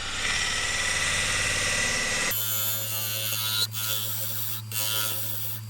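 Wood lathe turning a poplar blank while a gouge cuts inside the hollow. For the first two seconds the tool chatters with a high ringing, because it hangs far out from the tool rest. Then a steady low hum comes in, with spells of scraping cuts.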